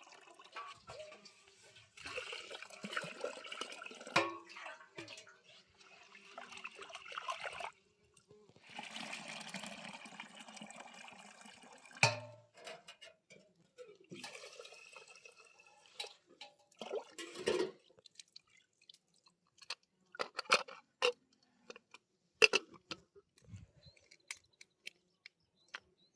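Water pouring and splashing in two spells of several seconds. Scattered knocks and clicks follow, with a few sharp hits near the end.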